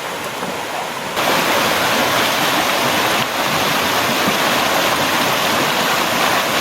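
Rushing water of a river or stream running over rocks, a steady hiss that steps up suddenly about a second in.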